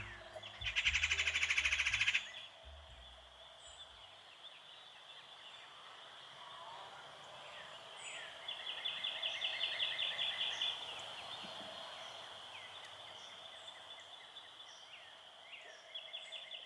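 Wild songbirds singing. A fast, high trill rings out about a second in and again from about eight to eleven seconds, with a brief trill at the end. Short falling chirps are scattered throughout.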